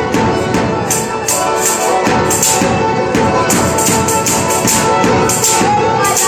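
Live band music: sustained instrument tones over a steady beat of bright, high, jingling percussion strokes.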